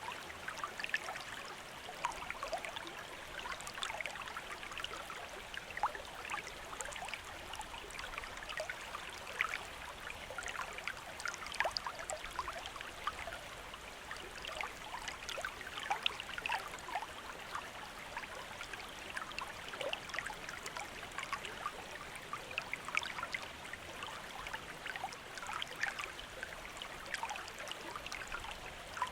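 Stream water running and trickling over rocks: a steady splashing burble with many small bright plinks.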